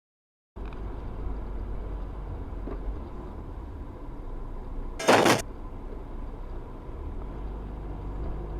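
Steady low rumble of a vehicle driving, as picked up by a dashcam, starting abruptly about half a second in. About five seconds in comes one short, loud burst of noise.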